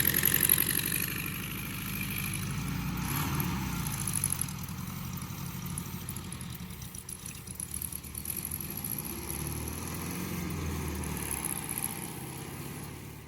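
Car engine idling steadily, slightly louder in the first second.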